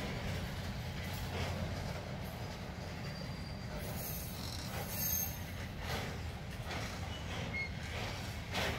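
Covered hopper cars of a BNSF freight train rolling past: a steady rumble of steel wheels on rail, with clacks every second or two as wheels cross rail joints. Brief high-pitched wheel squeals come about four and five seconds in.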